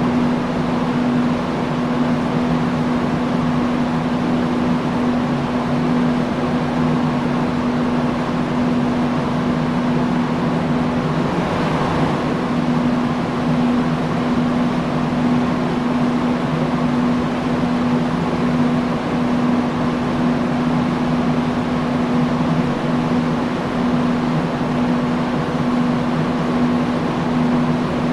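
Industrial fan running steadily: an even rush of moving air over a constant low hum.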